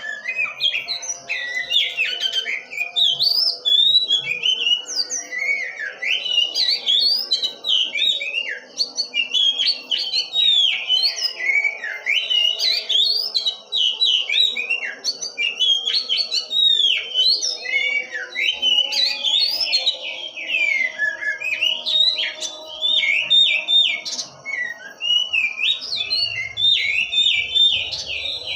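Oriental magpie-robin (kacer) singing without pause: a fast, varied run of whistled notes and chirps, many sliding up or down in pitch.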